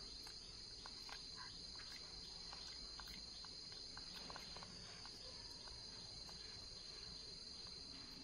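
Faint, steady, high-pitched chirring of insects, with scattered light ticks.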